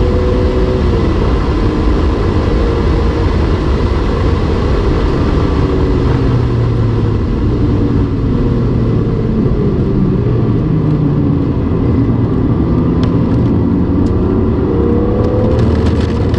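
BMW E46 M3's S54 inline-six, heard from inside the cabin, running near its redline at about 7,300 rpm in fourth and shifting up to fifth about a second in. The revs then fall off the throttle with downshifts for a slow corner, and near the end the engine pulls hard again in third, its pitch rising.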